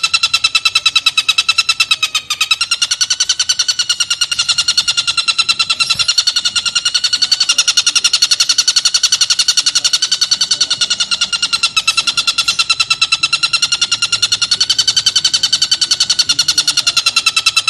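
Oriental dollarbird calling: an unbroken run of fast, harsh chattering notes, many a second, each with a clear ringing pitch that wavers slightly and dips briefly about two seconds in.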